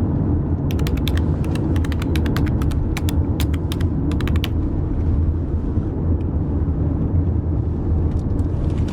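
A steady low mechanical rumble, with a quick irregular run of sharp ratcheting clicks over the first few seconds and a few more clicks near the end.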